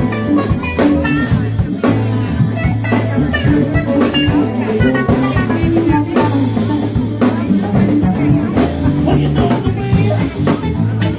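Live band playing: electric guitar notes over bass guitar and a drum kit keeping a steady beat.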